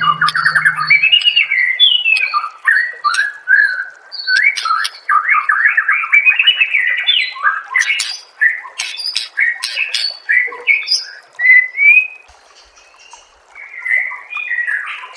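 White-rumped shama (murai batu) singing a fast, varied song of whistles, trills and sharp notes, with a short pause near the end.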